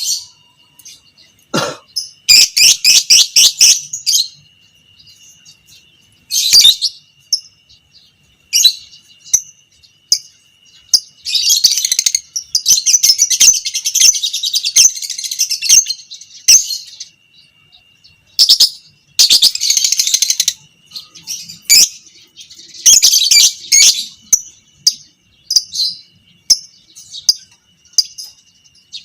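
Lovebird singing its long chattering trill (ngekek panjang) in fast pulsed bursts, the longest run lasting about five seconds near the middle. A faint steady high whine sounds underneath.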